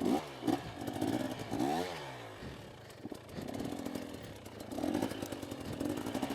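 Single-cylinder two-stroke dirt bike engine (KTM 250SX) revving in short bursts over rough ground, its pitch climbing and dropping sharply about two seconds in, with scattered knocks and clatter.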